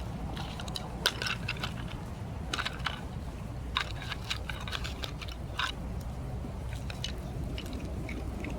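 Small bones clicking and rattling against each other as they are handled in the hand, in scattered clusters of short clicks, over a steady low hum.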